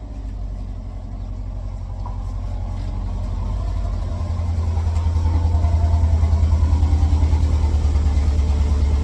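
Subaru EJ flat-four engine in a VW Beetle running with a deep, evenly pulsing exhaust note that gets louder about four seconds in.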